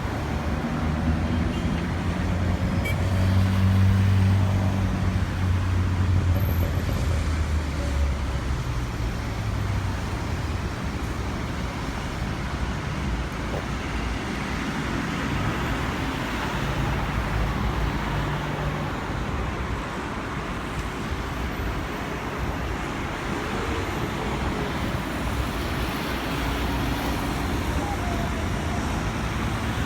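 Road traffic passing: steady engine and tyre noise, with a heavier vehicle's low engine hum loudest about four seconds in.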